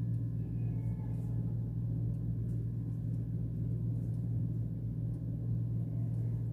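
A steady low hum with no pauses or changes.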